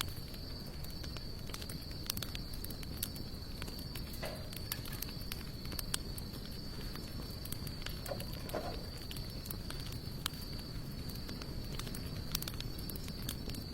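Wood fire of sawtooth oak and mixed hardwood crackling, with frequent irregular sharp pops and snaps over a low steady rumble. A steady high-pitched tone runs underneath.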